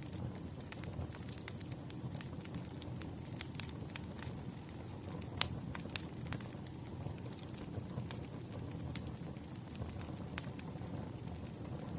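Wood fire burning: steady low rumble of the flames with irregular crackles and pops from the burning logs, one sharper pop about five and a half seconds in.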